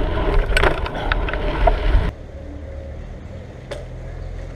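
Mountain bike rattling over rough dirt on a fast descent, with wind buffeting the microphone and sharp clicks and knocks from the bike. About two seconds in the noise cuts off abruptly to a quieter low rumble with a few faint ticks.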